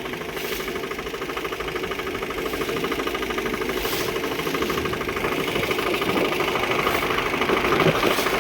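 Motorboat engine running steadily with a fast, even beat.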